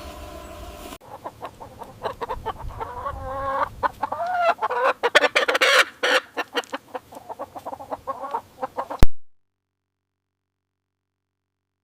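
Chickens clucking, a run of short repeated calls that cuts off abruptly about nine seconds in, followed by silence.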